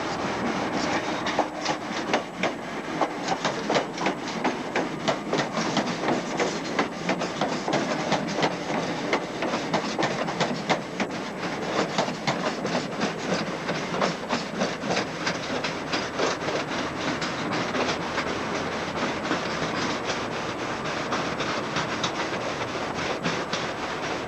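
Train passing, its wheels clattering over rail joints and points in rapid irregular clicks that thin out over the last few seconds.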